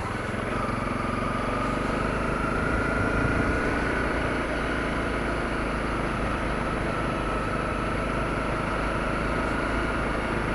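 Honda CRF250L dual-sport motorcycle's single-cylinder engine running steadily at an even, low speed, with a faint whine over a low rumble.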